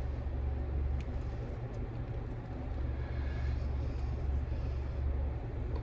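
Steady low rumble of a running vehicle, like a car heard from inside.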